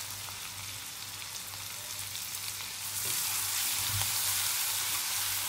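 Green chili and garlic paste frying in hot oil in a pan, a steady sizzle that gets louder about three seconds in as it is stirred with a spatula.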